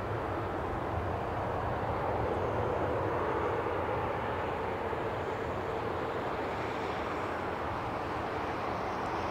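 Airbus A321 jet engines heard as a steady rumbling noise, with a faint steady hum in it.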